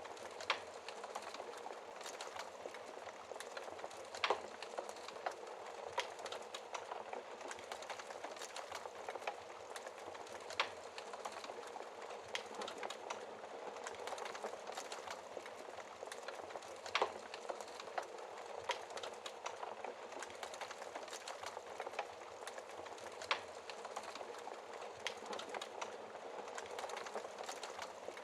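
Wood fire burning in a fireplace behind its glass door: a steady hiss of flames with sharp crackles and pops every few seconds.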